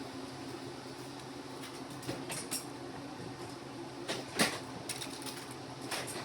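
Scattered light clicks and knocks of toy engines being picked up and handled, over a steady low hum.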